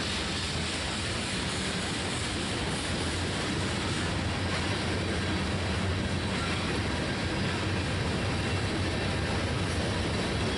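Freight train cars, a string of tank cars and covered hoppers, rolling past: the steady noise of steel wheels running on the rails.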